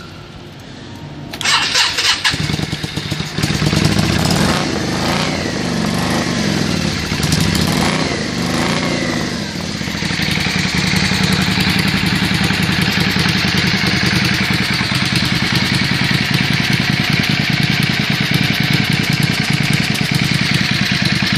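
Yamaha Virago V-twin motorcycle engine cranked on the starter and firing up about two seconds in. Its speed rises and falls for several seconds, then it settles into a steady idle about ten seconds in.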